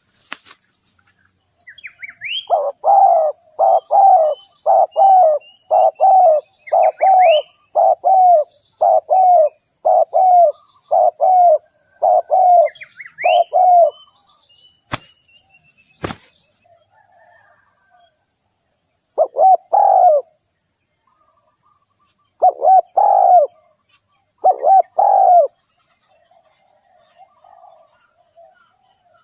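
Spotted dove cooing: a run of about a dozen coos at roughly one a second, then a few more spaced out after a pause. This is the call of a decoy dove used to lure wild doves.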